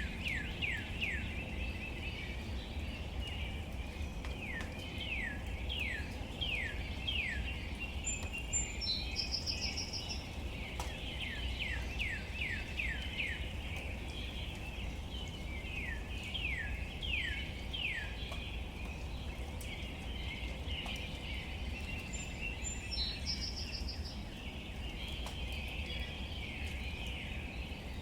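Birds calling outdoors: bouts of quick, downward-sweeping chirps, several in a row, recurring every few seconds over a busy background chorus, with a brief higher call twice. A steady low rumble runs underneath.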